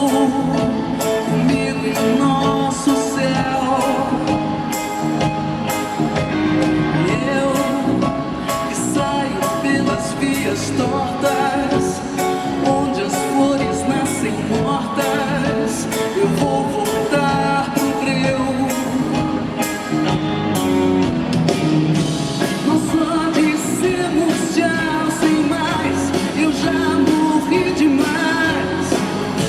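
Live band music with a steady drum beat and guitar, with singing over it.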